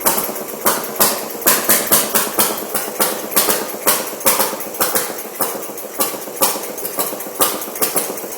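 Antique Elgin Comet two-stroke, air-cooled single-cylinder engine running slowly, firing in sharp pops about two to three a second at uneven spacing.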